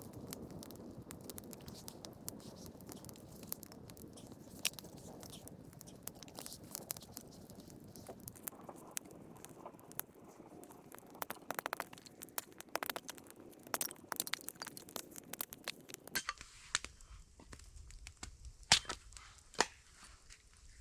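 Wood campfire crackling, with many sharp pops and snaps over a low hiss. About sixteen seconds in the hiss drops away, leaving fewer but louder snaps.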